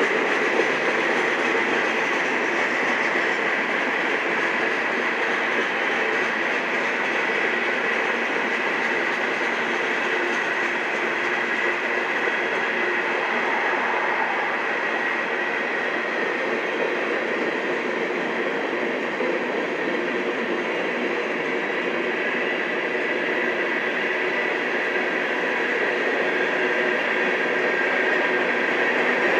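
Railroad cars rolling steadily along the rails, a continuous rumble and rush with faint steady high-pitched tones over it.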